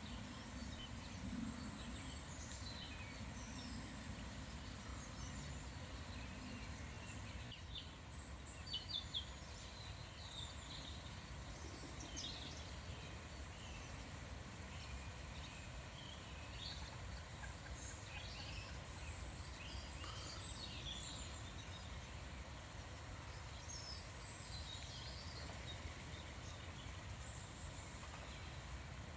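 Wild songbirds chirping and calling in short, scattered bursts, over a steady low background rumble.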